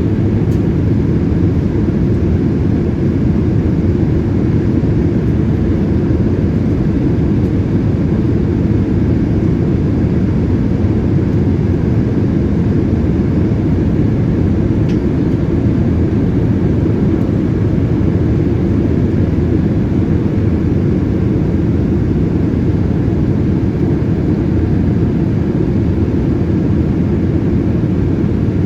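Steady low rumble inside the cabin of a Boeing 787-8 in flight: engine and airflow noise, even and unchanging.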